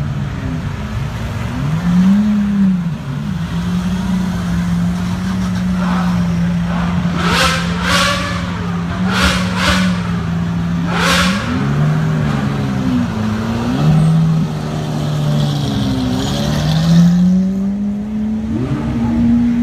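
V12 supercar engines idling and revving as the cars pull away, the engine note rising and falling several times. There are a few short sharp cracks in the middle.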